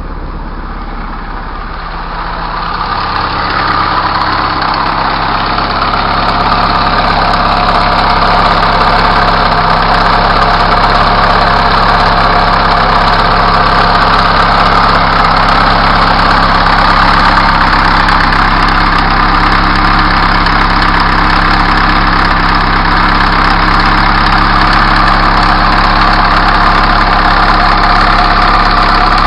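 Truck's diesel engine idling steadily, getting louder over the first few seconds and then holding even.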